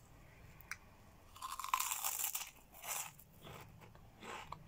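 Biting into and crunching a puffed Cheetos Colmillos snack, loudest about a second and a half in, followed by softer chewing crunches.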